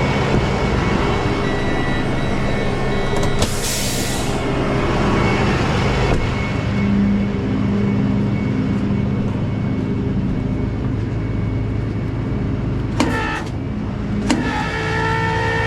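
Tow truck engine idling steadily, with a short burst of hiss about three and a half seconds in and two sharp knocks near the end.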